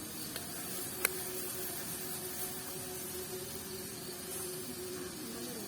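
Steady hiss of food cooking on a camp stove and grill, with a faint steady hum and a single sharp click about a second in.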